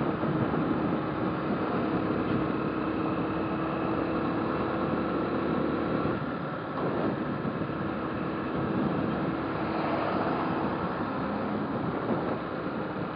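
Motorcycle engine running while riding, with wind and road noise over the microphone; the engine note changes about six seconds in.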